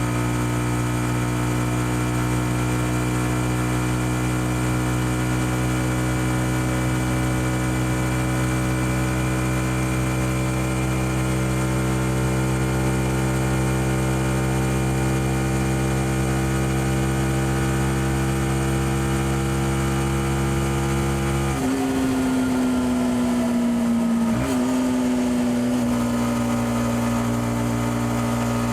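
Yamaha XSR 155's single-cylinder engine running through its stock exhaust under way, its note climbing slowly and evenly. About three-quarters of the way through the note changes abruptly and falls for a few seconds, with a brief blip, then holds steady again.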